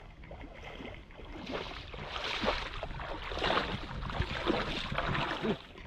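Water splashing and sloshing in repeated swells.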